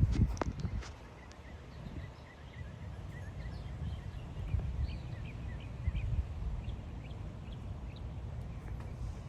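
Wind rumbling on the microphone, loudest in a gust right at the start, while birds chirp in quick runs of short notes through the middle.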